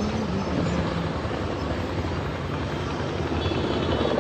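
Motorboat engine running steadily, with a rapid pulsing beat that gets stronger near the end.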